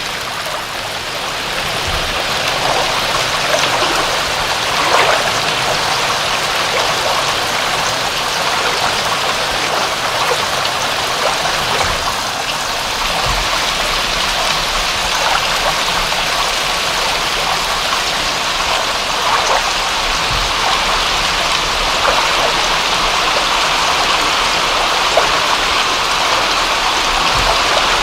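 Steady rain: an even, continuous hiss with a few individual drops ticking now and then.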